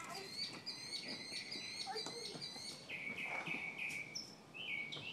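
Small birds chirping: quick runs of short, high chirps repeated over and over, with brief gaps between runs.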